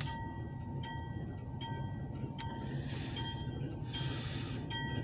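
Approaching diesel freight train with a steady low engine rumble, and a grade-crossing bell striking about once every 0.8 seconds.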